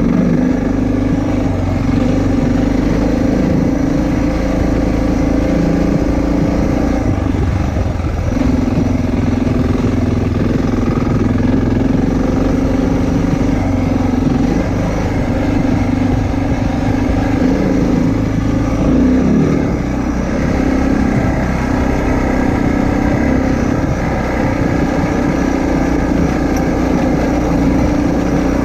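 Motorcycle engine running steadily on the move, its note breaking briefly twice, about eight and nineteen seconds in.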